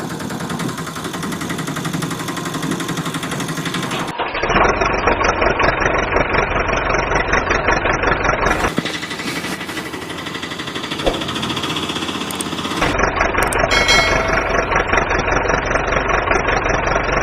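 Steady engine-like running with a fast pulsing beat. Its character changes abruptly about four, nine and thirteen seconds in.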